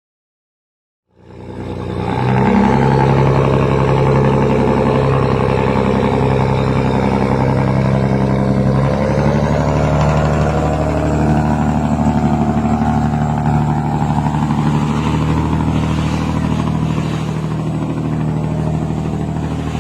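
A riverboat's Scania 550 hp diesel engine running hard as the boat gets under way, a loud steady drone that sets in about a second in. Its pitch shifts slightly about eight seconds in.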